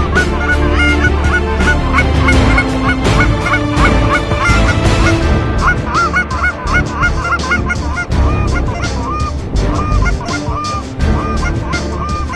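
Goose honks and clucks, many short calls in quick succession and overlapping, over heavy wind buffeting the microphone.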